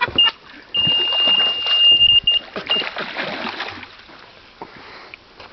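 A hooked carp splashing in the water. Over the first three seconds a carp angler's electronic bite alarm sounds a steady high-pitched tone that breaks off briefly a few times.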